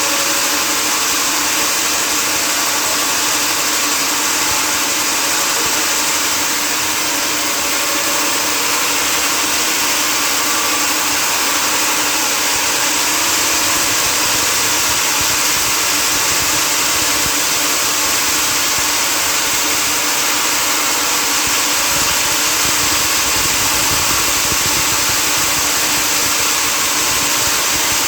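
Sawmill machinery running steadily: a continuous, even mechanical drone with a strong hiss, without pauses or separate knocks.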